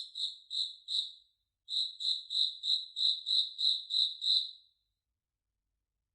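A high, pure-toned chirp repeated about three times a second: four chirps, a short pause, then about ten more, stopping about three-quarters of the way through.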